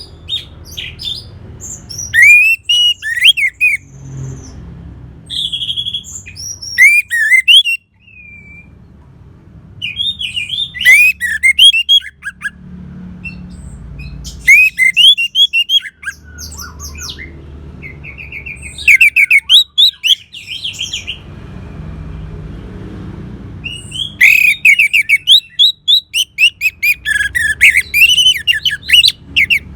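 Orange-headed thrush song, used as a lure track to draw other thrushes into singing: bursts of rapid, varied high warbling phrases a second or two long, separated by short pauses, over an intermittent low background rumble.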